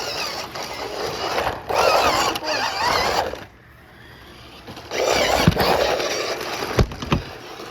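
RC cars' electric motors and gears whirring in bursts, with a lull in the middle and three sharp knocks near the end as the cars bump.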